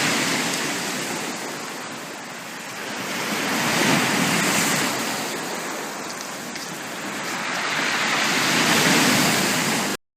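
Sea waves breaking on a beach, swelling and falling back roughly every four to five seconds. The sound cuts off abruptly near the end.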